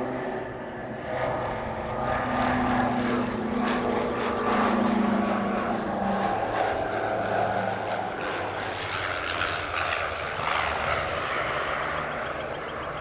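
Diamond DA-62 twin-engine propeller plane landing, its two turbo-diesel engines and propellers running steadily. The sound swells a couple of seconds in, with a steady hum that holds for a few seconds before easing off.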